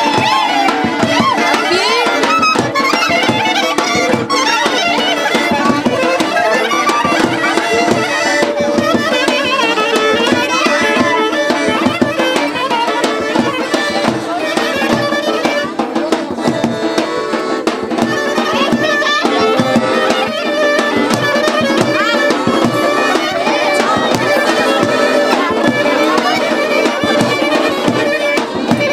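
Traditional Balkan folk dance music: a fast, heavily ornamented lead melody over a steady drone and a driving drum beat.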